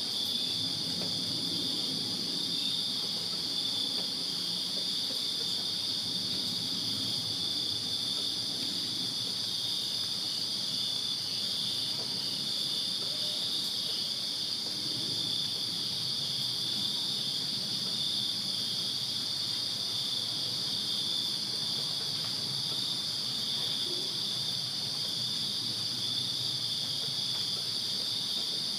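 A chorus of crickets chirping, a continuous high-pitched trill that holds steady throughout.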